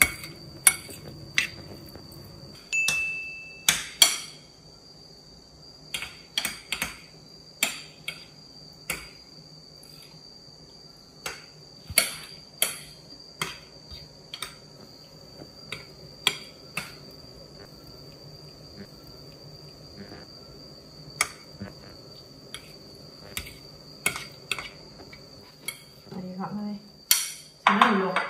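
Metal spoon clinking against a ceramic bowl in irregular sharp clicks as diced grapefruit pieces are stirred, with a short beep about three seconds in.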